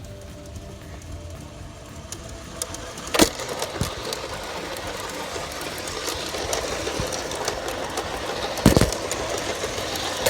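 G scale model train running on garden track, a steady mechanical rolling and motor noise that grows louder, with two sharp knocks, one about three seconds in and one near the end.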